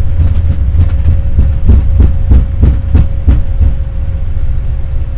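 Boeing 787 rolling out on the runway after landing, heard from the cockpit: a steady low rumble of the landing gear on the runway, with a run of regular thumps, about three a second, in the middle.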